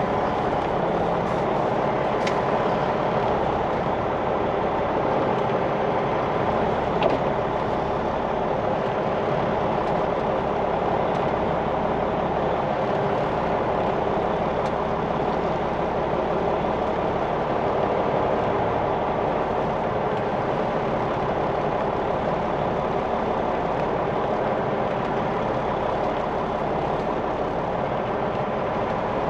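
Semi truck's diesel engine idling steadily, with one short click about seven seconds in.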